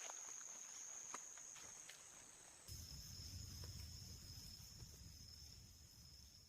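Faint insect chorus droning at one steady high pitch, with a few soft ticks. About three seconds in the drone shifts a little lower and a low rumble joins it, then the sound fades out.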